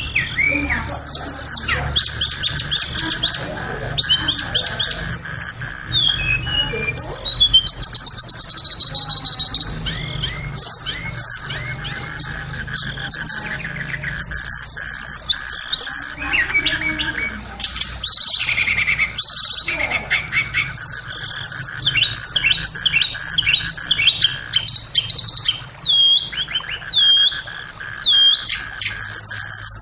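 Tledekan (Cyornis blue flycatcher) song: rapid runs of high chirps, trills and short whistled phrases, one after another, over a steady background hum.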